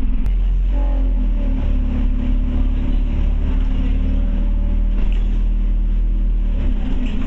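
Scania OmniCity bus's diesel engine heard from inside the bus, its note rising about a second in as it pulls away, then running steadily under way.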